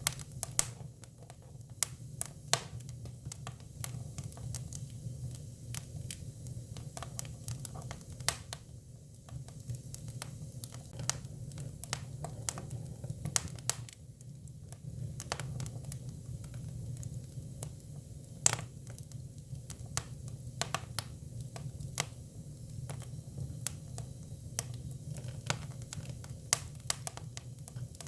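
Hinoki cypress firewood burning, crackling with irregular sharp pops over a steady low hum.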